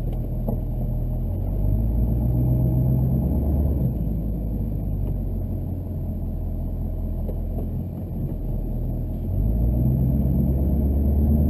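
Chevrolet Duramax LB7 6.6-litre V8 turbodiesel pickup under way, a low engine and road drone that grows louder about two seconds in, eases off, and swells again near the end.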